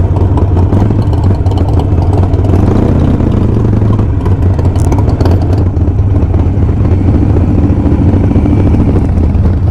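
Harley-Davidson Sportster's V-twin engine running steadily while riding.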